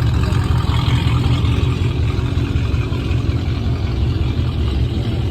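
Car engine idling, a steady low rumble that holds without revving.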